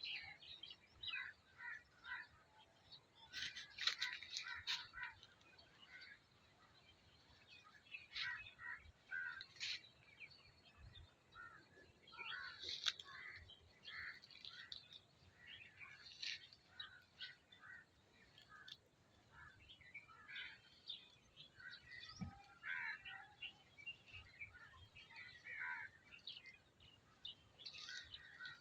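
Small birds chirping: many short, high calls overlapping, faint, with thicker clusters of calls here and there.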